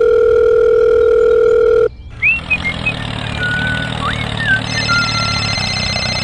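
Telephone dial tone: one steady, loud tone held for about two seconds that cuts off suddenly. After it comes a low engine-like rumble with short whistling chirps over it, and near the end a brief high ringing.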